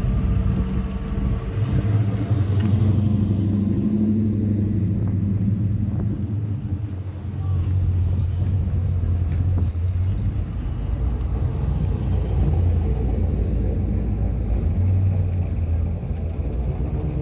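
Engines of classic American cars running at low speed as they drive slowly past one after another, a steady low engine note that swells as each car comes close, loudest a few seconds in.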